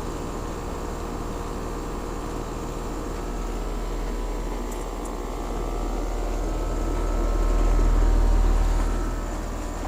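Outdoor unit of a 2010 Bryant Evolution 5-ton two-stage heat pump running in heating mode: steady compressor hum and fan noise, with its coil frosting over. A low rumble swells and fades about eight seconds in.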